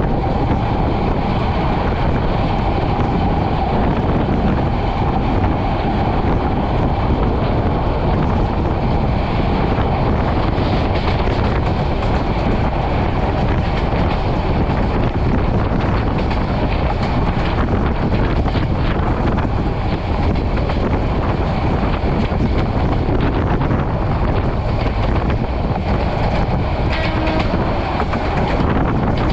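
Passenger train running at speed on the track: a steady, loud rumble of wheels on rail with a continuous clickety-clack of rail joints.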